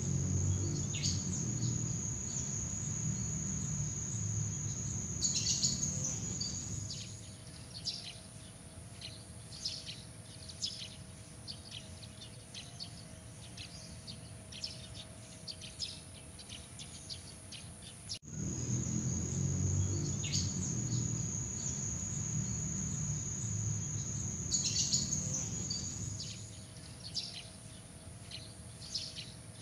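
Nature ambience of many small birds chirping in short high calls, with a steady high insect drone and a low rumble that come and go. About two-thirds of the way through the sound cuts off abruptly and the same stretch starts over, as a looped recording does.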